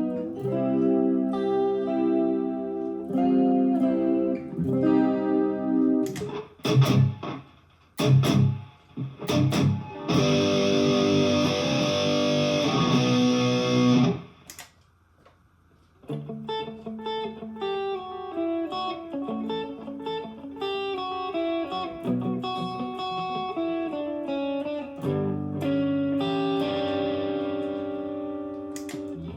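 Electric guitar played through a Sonicake Matribox 1 multi-effects unit and an Alto TS408 powered speaker. It plays held chords, then a few short stabbed chords and a long sustained chord that cuts off about fourteen seconds in. After a brief pause comes a run of single notes, with chords again near the end.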